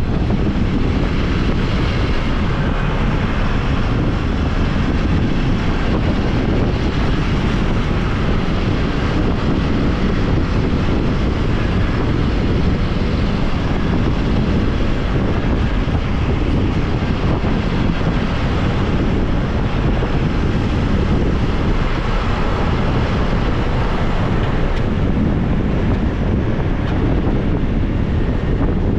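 Steady wind rushing over the microphone on a moving motorbike, loud and heaviest in the low end, with the motorbike's running noise underneath.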